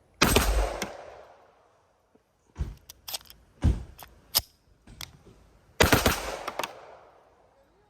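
Two shots from a 9mm PSA Dagger pistol, a Glock-clone handgun, about five and a half seconds apart, each with a long ringing tail. Between them come several shorter, sharper clicks and knocks.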